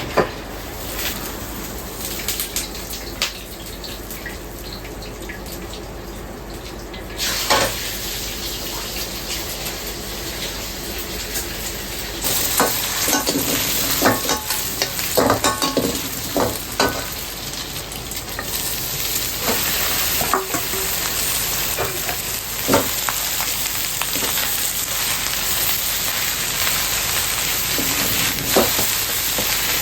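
Food frying in hot oil in a wok, the sizzle jumping louder about seven seconds in and again about twelve seconds in, with repeated sharp clanks of stirring and tossing as the food cooks.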